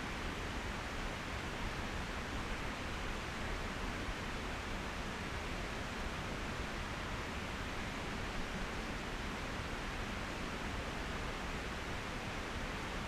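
Steady, even rushing hiss, which fits a Trangia camp stove's burner heating a kettle of water toward the boil.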